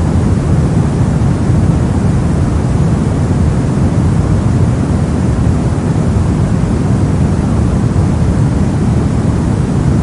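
Steady, unchanging noise track of the kind played as white noise for sleep and focus, weighted towards the low end, so it sounds soft and deep rather than hissy.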